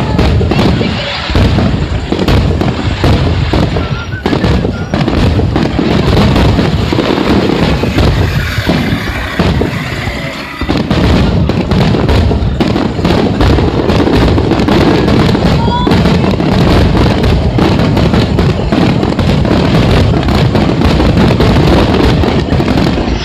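Fireworks finale: rapid, nearly continuous bangs and crackles from many shells bursting in quick succession, with a brief whistle about two-thirds through.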